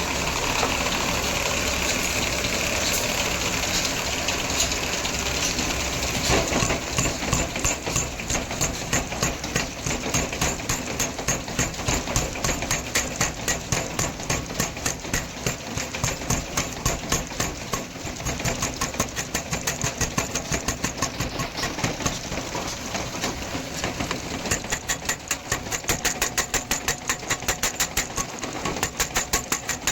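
Hammer blows on iron being forged, falling in a fast, even rhythm of about three or four strikes a second. They begin about six seconds in, after a steady rushing noise.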